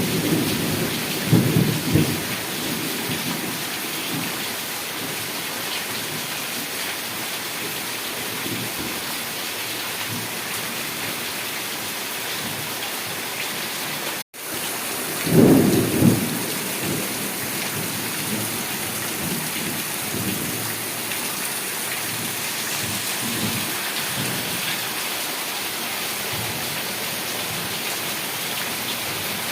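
Heavy rain falling steadily, with rolls of thunder near the start and again about halfway through. The sound cuts out for an instant just before the second, louder roll of thunder.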